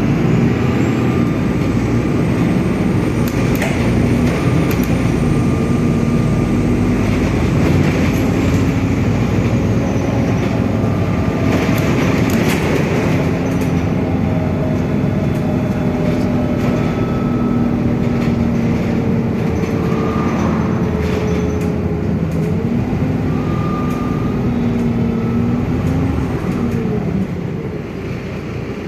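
City bus running, heard from inside the passenger cabin: a steady low rumble of engine and road with whining drivetrain tones that slowly rise and fall in pitch, and occasional knocks and rattles. The sound gets a little quieter near the end.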